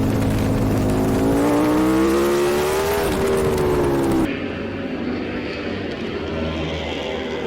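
Racing superbike engine at full throttle, its pitch rising steadily as it pulls through a gear, under heavy wind rush. About four seconds in the sound cuts off abruptly to a quieter, steady engine drone.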